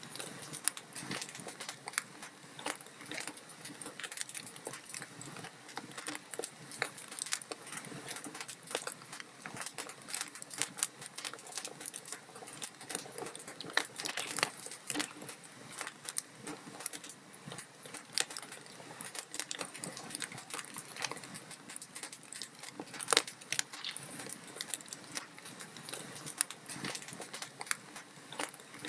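Log fire crackling, with dense irregular pops and snaps over a soft hiss of burning wood; one sharper snap about 23 seconds in stands out.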